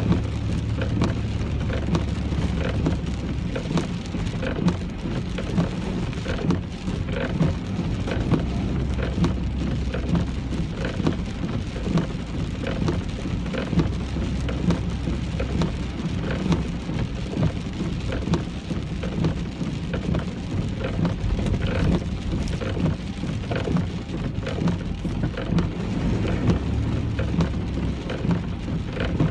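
Rain falling on a car as it drives: a dense patter of drops over a steady low rumble from the car and its tyres on the wet road.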